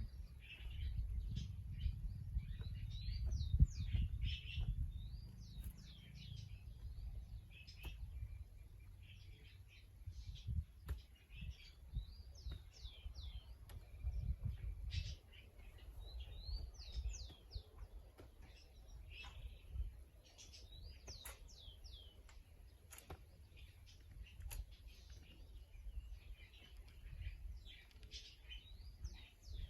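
Small birds chirping throughout, in many short, quick calls that sweep up and down in pitch. Under them runs a low rumble that is strongest in the first several seconds and then comes and goes.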